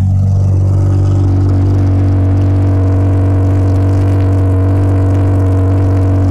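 Audi A4 2.8's V6 engine idling steadily through a broken exhaust, very loud and droning: the muffler has a large hole torn in its bottom from bottoming out.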